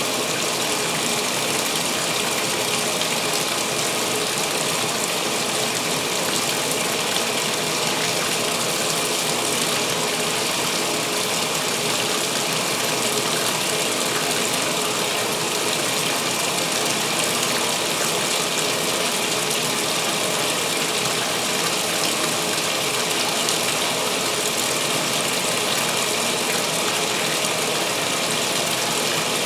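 2016 Speed Queen top-load washer filling with water for its pre-wash: a steady rush of water into the tub.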